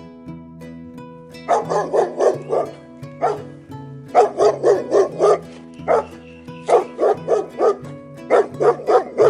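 A dog barking in quick runs of four or five barks, with single barks in between, over steady background music.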